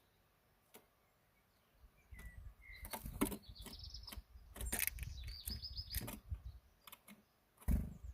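Small birds giving short chirps and two rapid, high-pitched trills, amid many sharp clicks and taps and a low rumble through the middle. A loud thump comes near the end.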